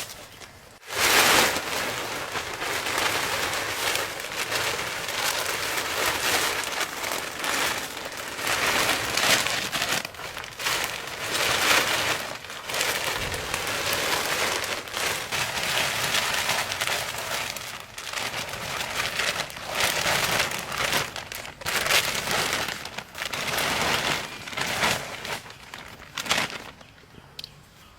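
Continuous rustling and crackling with many small sharp crackles, which starts about a second in and dies away near the end.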